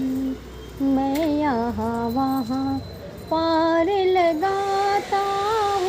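A woman's voice singing a Hindi devotional bhajan in held, wavering notes, in three short phrases with brief breaths between them.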